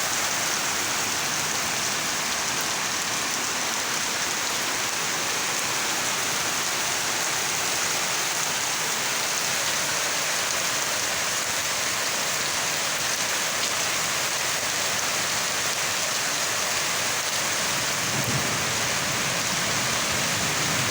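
Heavy rain pouring down in a storm: a steady, even hiss with no breaks.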